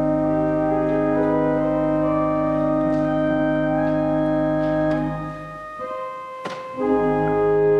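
Organ playing slow, held chords. About six seconds in the chord stops briefly, with one sharp click in the gap, before the next chord sounds.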